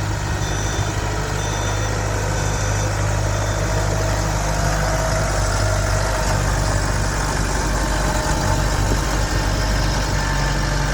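Kubota M108XDTC tractor's diesel engine running steadily. A backup alarm beeps about once a second for the first three seconds.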